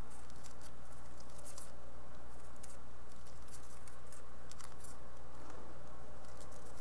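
House finch fledglings shuffling and scratching inside a wooden nest box: irregular light clicks and scrapes of feet and beaks on the wood and seed hulls, over a steady low hum.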